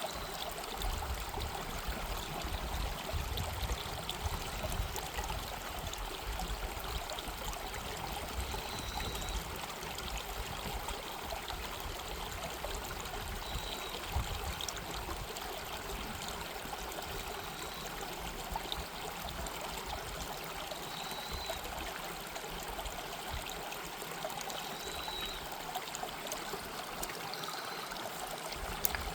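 Mountain valley stream running, a steady rush of water, with a few short high chirps now and then.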